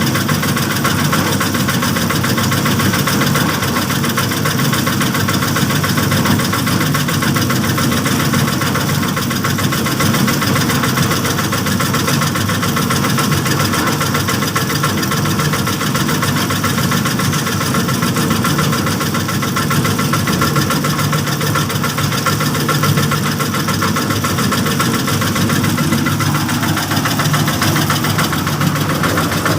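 Small engine of a bored-pile drilling rig running steadily at a constant speed.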